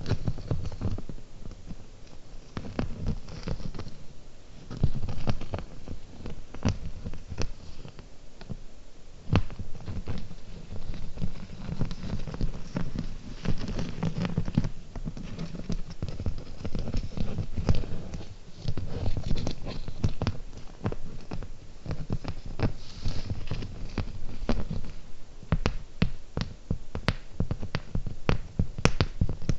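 Fingernails tapping and clicking on small cubic zirconia gems and water beads close to the microphone, with a low rumble of the mic being touched underneath. The taps come unevenly at first and grow quicker and denser near the end.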